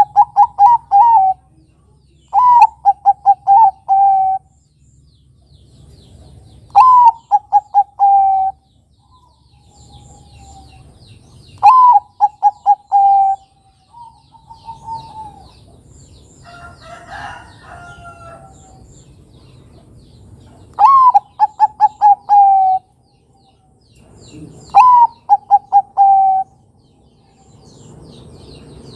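Bangkok-type zebra dove (perkutut) singing: six phrases of quick staccato coos, each about a second and a half long, repeated every few seconds with longer gaps between some of them. Small birds chirp faintly in the background.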